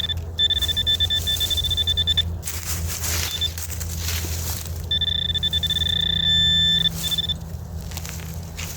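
Metal detector sounding a steady high electronic target tone, in two stretches of about two seconds each, about a second apart, over a low steady drone of distant road traffic.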